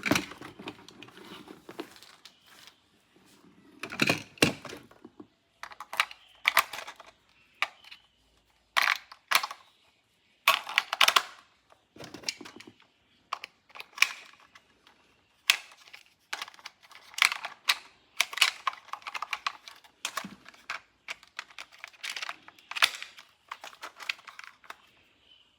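Hands handling plastic toys and their packaging: irregular bursts of clicks, rattles and crinkling, with short pauses between.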